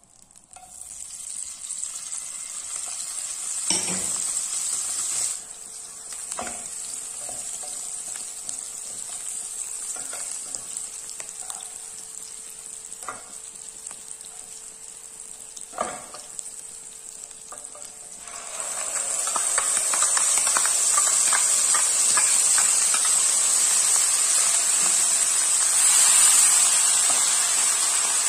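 Paneer cubes sizzling as they fry in butter and oil in a nonstick pan, with a few knocks of a wooden spatula against the pan. About two-thirds of the way through, the sizzle grows much louder and denser as a wet orange masala paste fries in the hot fat.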